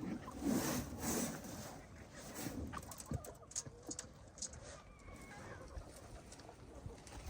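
Chickens clucking softly, with a couple of brief rustling noises in the first second or so.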